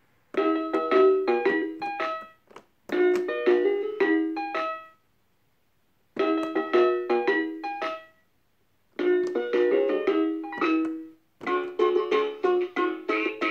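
Fisher-Price puppy activity table toy playing short electronic keyboard-like tunes through its small speaker: five brief melodic phrases, each cut off by a short pause.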